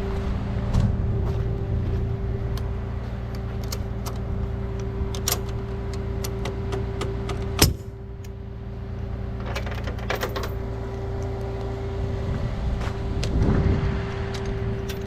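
Tow truck engine idling steadily under scattered metallic clinks and clicks of chains and hooks being handled, with one sharp clank about halfway.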